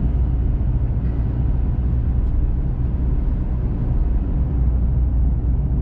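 Steady low drone of a diesel four-wheel-drive vehicle's engine and tyre noise, heard from inside the cab while driving.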